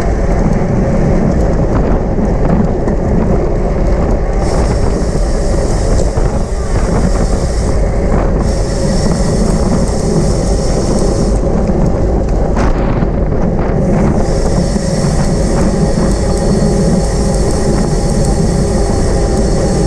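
Steady rush of wind on the microphone of a camera riding along on a racing bicycle, with road and tyre noise beneath it.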